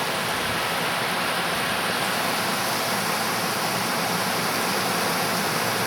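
Steady, even rush of water flowing down a steep concrete reservoir spillway.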